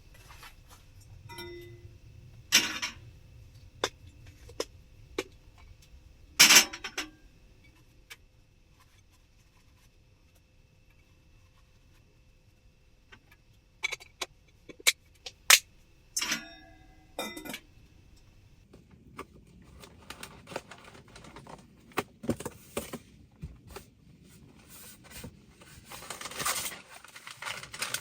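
Camping gear being handled: a series of sharp clicks and metallic clinks, the loudest about six seconds in, with rustling and busier clattering toward the end.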